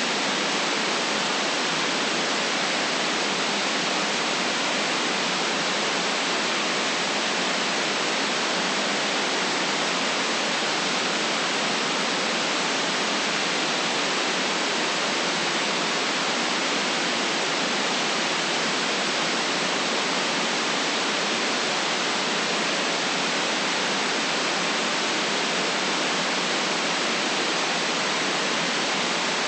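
Steady white noise: an even, unchanging hiss with no deep rumble and nothing else in it.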